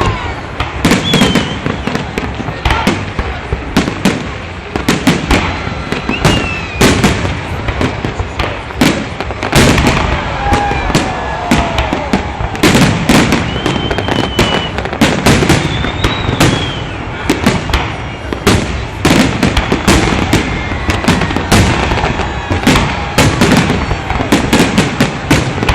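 Fireworks salute: a dense barrage of aerial shell bangs, several a second and overlapping, going on without a break.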